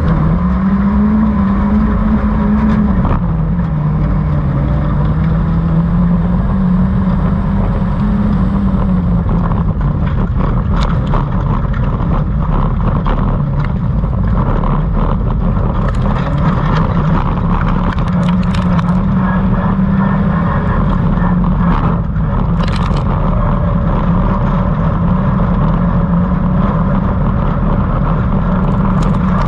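Loud engine of a stock hatch autocross car heard from inside its stripped, caged cabin, its pitch rising, dipping about four seconds in, then holding fairly steady. Scattered short clicks and rattles come through from about ten seconds in.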